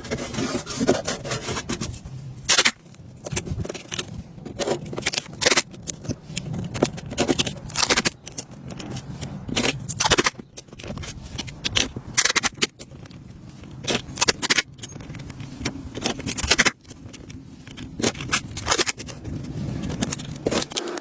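Repeated short, irregular scraping strokes of a hand tool working a drywall surface, over a low steady hum.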